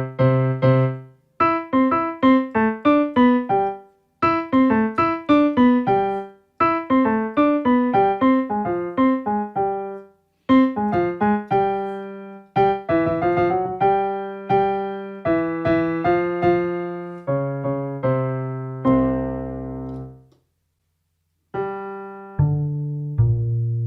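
Acoustic piano tone from a Casio AiX-sound keyboard, played as short melodic phrases of struck notes that die away, with brief gaps between phrases. Near the end a low chord sustains, then stops for about a second before playing resumes.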